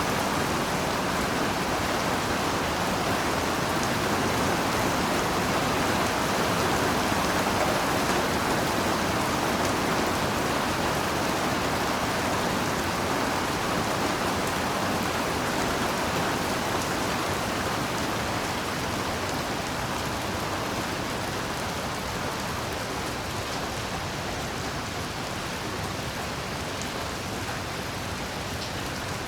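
Heavy rain falling steadily, a dense even hiss of countless drops, growing a little quieter after about eighteen seconds.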